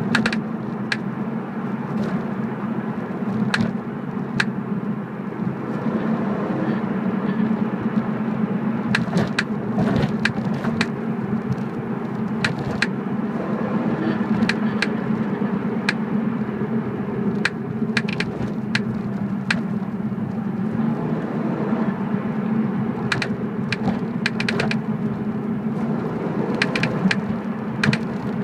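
Irregular sharp clicks and ticks from the rear of a BMW E46, coming singly and in short clusters, over a steady low drone of the running car. The clicking is the unexplained rear noise the owner is chasing.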